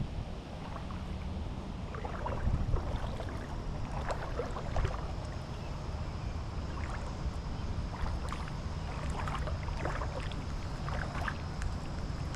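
Creek water splashing and sloshing irregularly, as from wading, over a steady low rumble of wind on the microphone.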